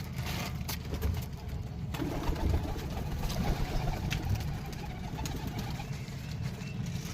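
Domestic pigeons cooing low, with scattered light clicks and taps.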